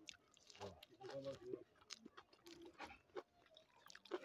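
Close mouth sounds of a person chewing a handful of rice and pork curry, with scattered wet smacking clicks; the sharpest smack comes near the end.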